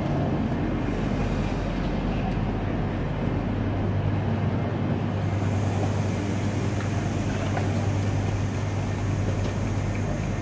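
Steady low hum and rumble beside a Eurostar train standing at the platform, constant throughout with no distinct events.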